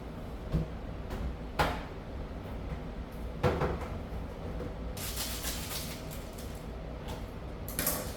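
A few knocks and clicks of objects being handled, with a stretch of rustling about five seconds in, over a steady low hum.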